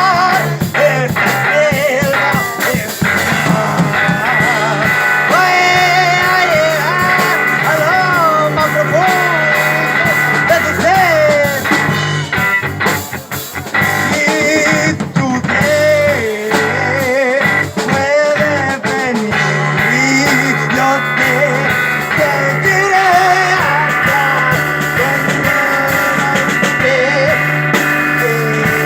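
Live psychedelic rock from an electric guitar and drum kit, with the guitar's pitch bending and wavering through the passage.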